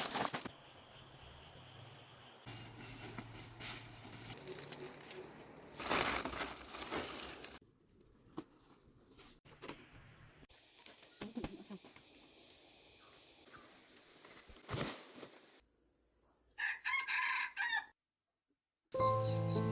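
A rooster crowing once, a long wavering call about three-quarters of the way through. Before it there are a few short bursts of broad rustling noise over a quiet rural background.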